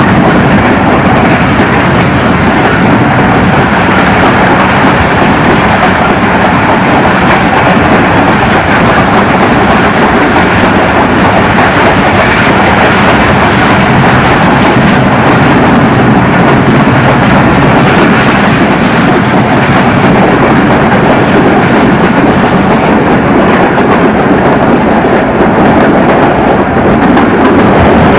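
Express passenger train of Pakistan Railways running at speed, heard from an open coach door: a loud, steady rumble of wheels on the track with faint ticks over rail joints.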